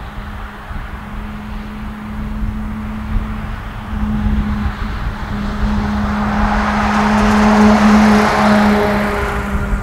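Scania R500 truck with a V8 diesel and an open, straight-piped exhaust, driving past. Its engine note grows steadily louder, is loudest about eight seconds in, then drops off near the end.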